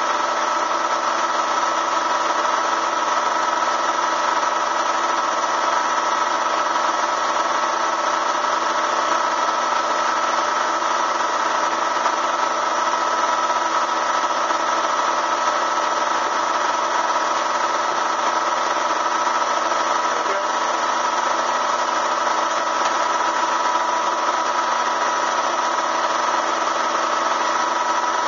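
Bee vacuum's motor running steadily, an unchanging whine.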